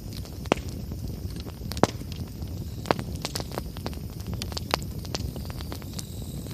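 Wood campfire crackling, with irregular sharp pops over a steady low rumble of burning; the loudest pops come a little under two seconds in and about three seconds in.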